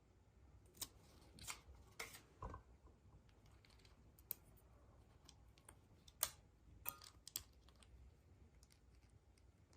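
Faint handling noises from opening surprise eggs and their plastic toy capsules: scattered sharp clicks and short crinkles, about eight of them, the sharpest a little after six seconds in.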